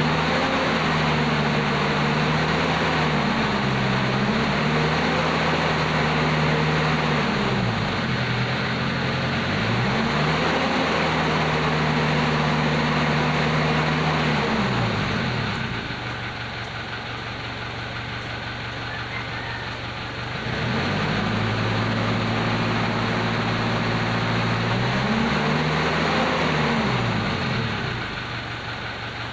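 Mitsubishi 4D56 common-rail diesel engine being revved and held at raised speed several times, dropping back to a steady idle in between, about a quarter of the way in and again near the end.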